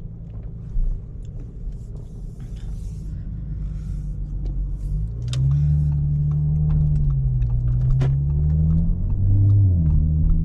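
Audi S5's engine running as the car is driven, a low drone that gets louder about five seconds in, its pitch then rising and falling with the throttle.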